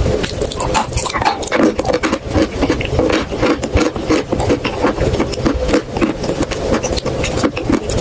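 Chalk clay paste being crushed, a dense, uneven run of crackles and crunches with some rubbing.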